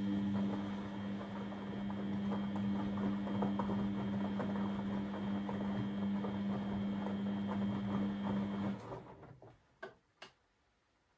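Beko washing machine's pump running with a steady hum and water gurgling through it, stopping abruptly near the end, followed by two short clicks.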